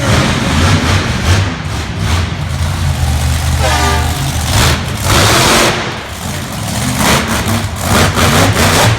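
Monster truck engine running loud and revving, with a heavy, uneven low drone. About five seconds in comes a loud, noisy burst lasting about a second.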